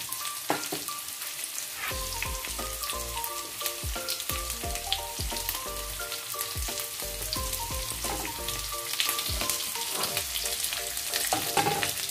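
Freshly added sliced onions, green chillies and whole spices sizzling in hot oil in a pan, a steady frying hiss with occasional knocks of a wooden spatula.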